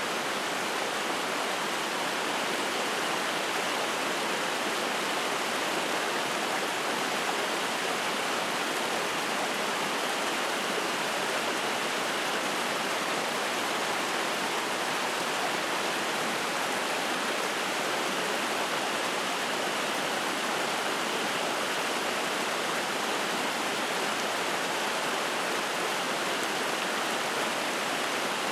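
Spring-fed mountain stream rushing and splashing over rocks, a steady, unbroken wash of water.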